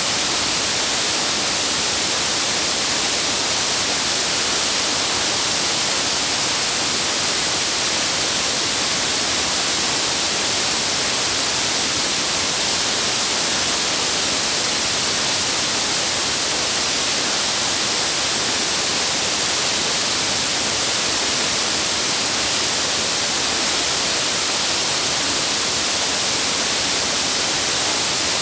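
Waterfall: a loud, steady rush of falling water that holds constant throughout.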